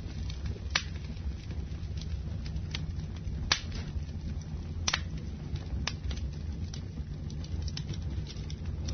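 Wood fire burning in a fireplace: a steady low rumble of the flames with sharp, irregular crackles and pops, the loudest pops about three and a half and five seconds in.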